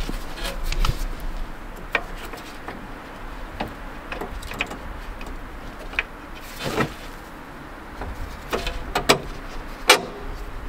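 Metal clinks and knocks of hand tools and bolts as a new rear sway bar end link is worked into place under a Mercedes W203: irregular light clicks, with a few sharper knocks in the second half.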